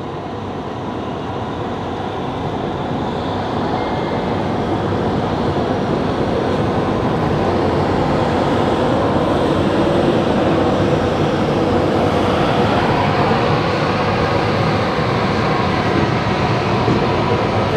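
Passenger express train running on the rails: a steady rush of wheel and coach noise that grows louder over the first several seconds as the train gathers speed after departure, then holds.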